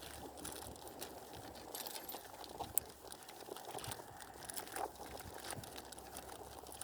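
Faint rustling and scattered small clicks of gear being handled.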